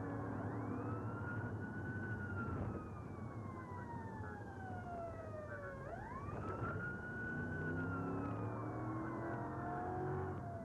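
Police car siren wailing through two long cycles, each a quick rise in pitch followed by a slow fall, over the steady hum of a vehicle engine and road noise.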